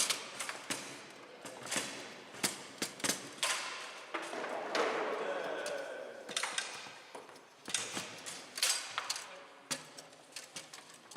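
Bonzini foosball table in play: the ball is struck by the players' figures and knocks against the table, with rods clacking, making a run of sharp, irregular knocks and clicks. A hissing stretch comes a few seconds in.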